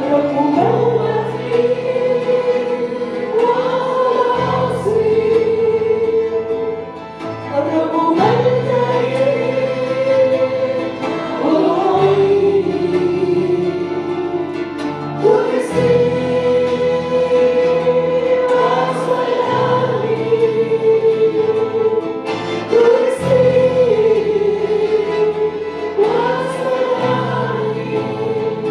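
Christian worship song: voices singing a hymn together over instrumental accompaniment, with low bass notes changing every few seconds.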